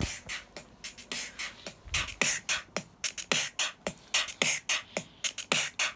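A rhythmic, beatbox-style percussion pattern: short falling kick-like thumps alternating with hissing hi-hat sounds, about four strokes a second. It is sparse for the first two seconds and then settles into a steady beat.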